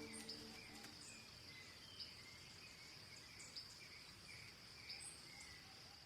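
Faint birds chirping, short calls every second or two, over a steady high insect drone, as the last guitar notes of the song die away in the first second.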